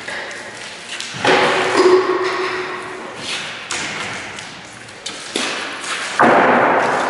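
Two heavy thuds about five seconds apart, each ringing on in an echoing, bare room, with lighter knocks between them, from subfloor construction work.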